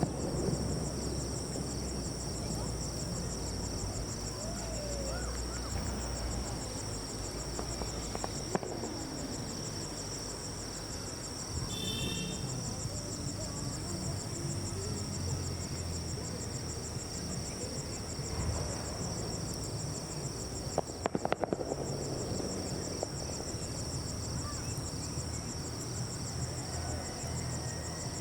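Night insects chirring in a steady, high-pitched chorus over a low background rumble. A short burst of sharp crackles about 21 seconds in.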